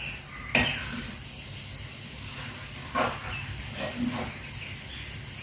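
Chop suey vegetables steaming in a covered pot with a steady hiss. A few sharp knocks sound about half a second in and near three and four seconds in.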